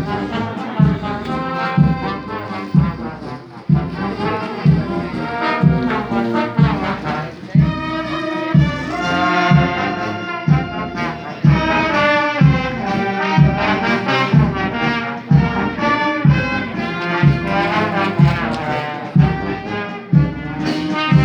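Brass band playing a march-like tune, with several brass instruments carrying the melody over a steady low beat about one and a half times a second.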